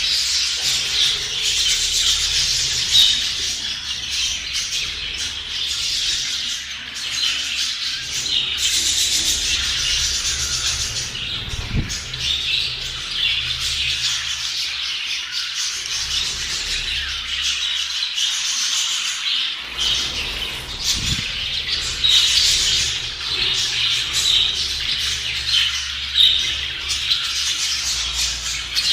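A flock of budgerigars chattering continuously, many birds chirping and warbling over one another.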